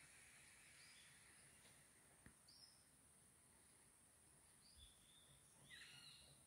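Near silence: faint outdoor ambience with a steady high hiss and a few short bird chirps, the loudest near the end, plus one faint click about two seconds in.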